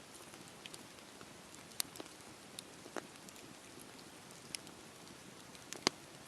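Campfire burning with a steady low hiss and irregular sharp crackles and pops of the burning wood, the loudest pop near the end.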